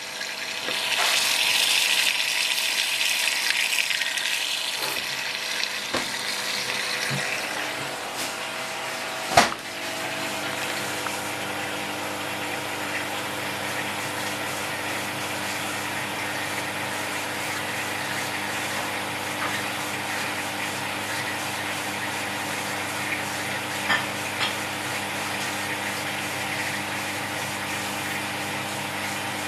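Hoover HTC 172 washing machine taking in water: a steady hiss of water flowing in, loudest over the first few seconds, over a low machine hum. A sharp click about nine seconds in, with a fainter one later.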